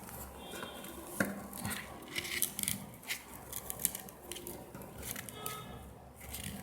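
Light clicks and rustles of hands working a small craft of wooden ice cream sticks and string, pulling and adjusting it, with a couple of faint brief squeaks.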